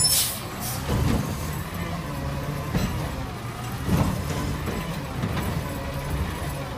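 Recycling garbage truck's engine running steadily, with a brief air hiss right at the start and a few sharp knocks about one, three and four seconds in.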